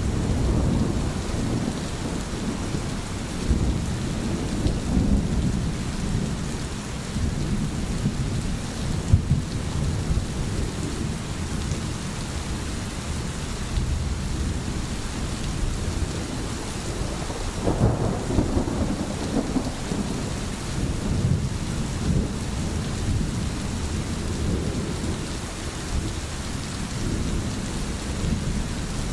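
Steady heavy rain with low rolling thunder rumbling underneath, the rumble swelling and fading several times, most strongly about two-thirds of the way through.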